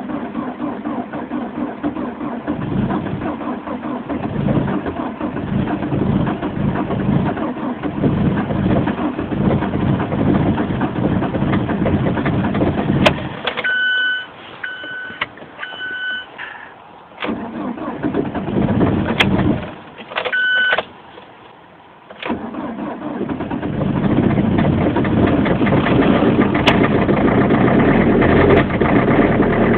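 Diesel engines being cranked over by their starter motors in extreme cold, with rhythmic chugging. Partway through, a few short electronic warning beeps sound, twice in separate bursts. For the last several seconds a cold diesel engine is running steadily after starting.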